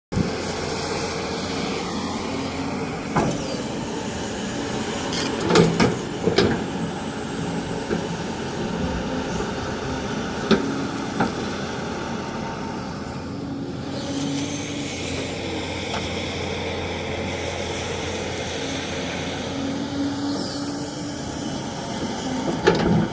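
Excavator's diesel engine running steadily while the machine works, with a few sharp knocks, clustered around a quarter and half of the way through and once more near the end.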